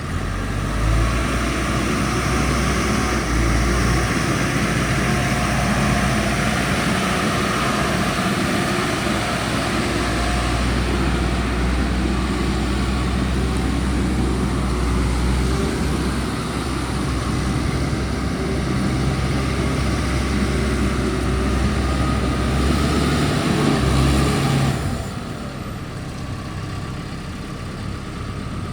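Caterpillar TL1055 telehandler's diesel engine running hard at raised speed, then dropping back to a lower, quieter run about 25 seconds in.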